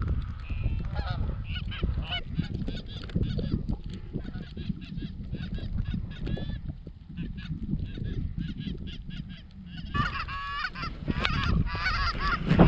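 Canada goose honks and clucks, a rapid string of short calls that grows louder and denser about ten seconds in, over a steady low rumble.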